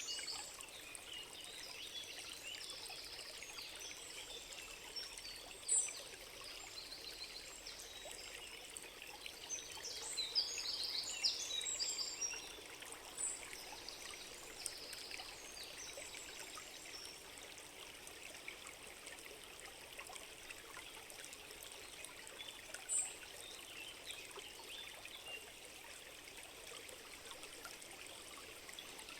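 A stream trickling and flowing steadily, with birds chirping now and then above it, a busier run of calls about ten to twelve seconds in.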